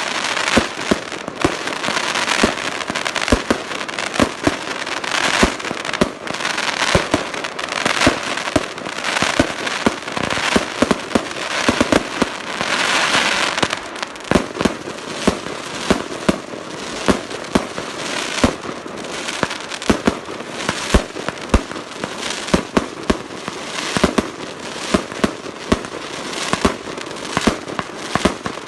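Vulcan 'Oman' 144-shot firework battery firing: a rapid, uneven string of sharp bangs over a continuous crackling hiss that is thickest in the middle, with the bangs standing out more separately in the second half.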